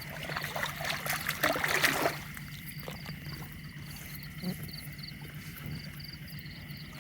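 Shallow canal water splashing and sloshing, heaviest in the first two seconds, as someone wades through it.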